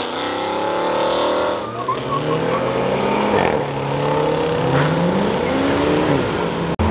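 A Ford Mustang's engine revving hard as the car pulls away, its pitch climbing and dropping several times. The sound cuts out suddenly for an instant near the end.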